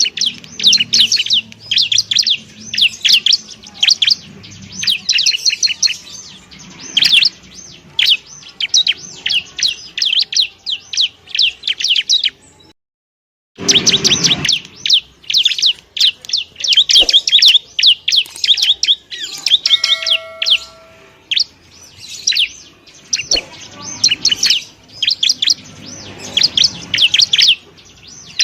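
Bar-winged prinia (ciblek) singing: fast, high, chattering chirps in dense runs, broken by a short silent gap about 13 seconds in.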